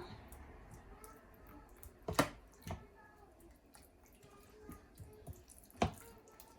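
Hands mixing seasoned raw chicken in a bowl: faint wet squishing, with two sharp knocks, one about two seconds in and one near the end, the loudest sounds.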